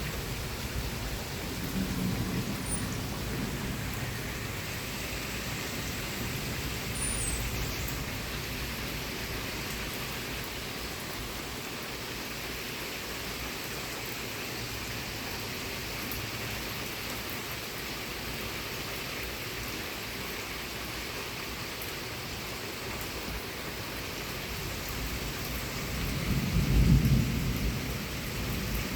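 Heavy rain falling steadily through a severe thunderstorm, with thunder rumbling low near the start and a louder peal of thunder about 26 to 28 seconds in.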